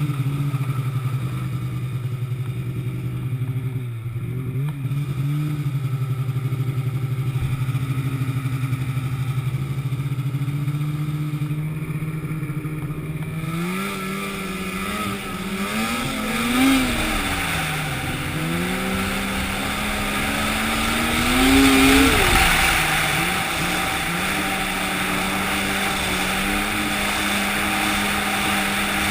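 An engine running at a steady speed, then revving up and down several times from about halfway through, with a loud hiss joining in, before settling at a higher steady speed.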